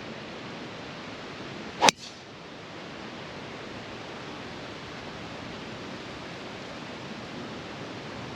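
A golf driver striking a ball off the tee: one sharp crack about two seconds in, over steady wind noise on the microphone.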